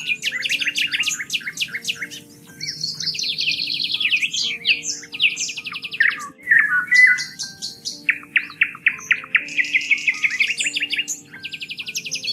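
Songbirds singing: a continuous run of rapid trills and quickly repeated chirping phrases, one phrase following another.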